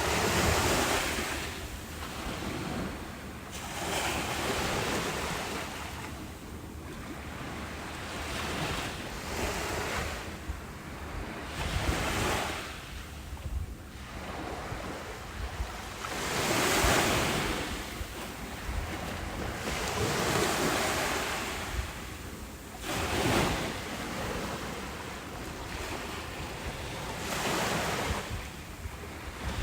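Ocean waves breaking on a beach, a rolling surf that swells and recedes every few seconds, with a low wind rumble on the microphone.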